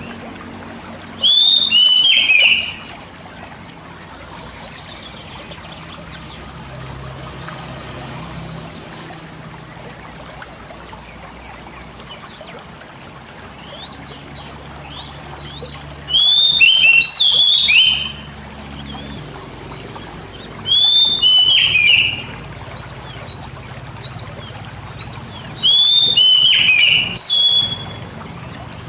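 Oriental magpie-robin (kacer) song: four loud bursts of swooping whistled phrases, each one to two seconds long, over a steady background of trickling water.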